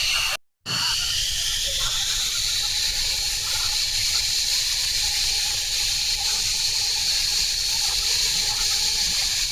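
Jet aircraft engine noise: a steady rushing roar with a high turbine whine that slowly rises in pitch. The sound cuts out for a moment about half a second in.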